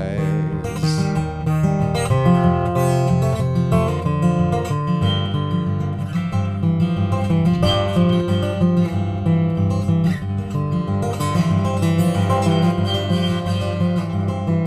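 Acoustic guitar strumming chords in an instrumental passage with no singing, the chords changing every second or so.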